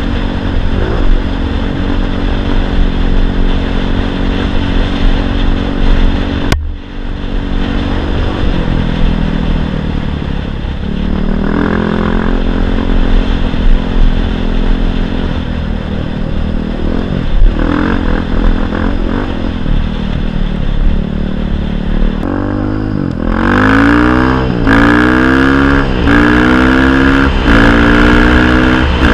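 Single-cylinder four-stroke enduro motorcycle engine running under load on a trail. Near the end it revs up over and over, the pitch climbing and then dropping each time, like the rider working the throttle and shifting through gears.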